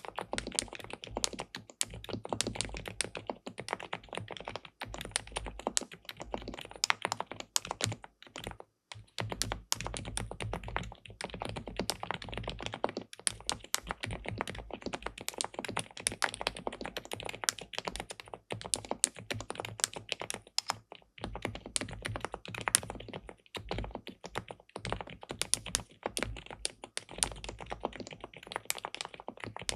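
SPM PL87W Mongdol 87 tenkeyless mechanical keyboard with linear switches and a polycarbonate plate, typed on continuously in fast runs of key strokes, with a brief pause about eight and a half seconds in.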